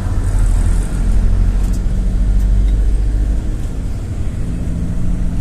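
GAZ-A68R52 City minibus on the move: a steady low engine and road drone. The engine note dips slightly about three and a half seconds in and picks up again near the end.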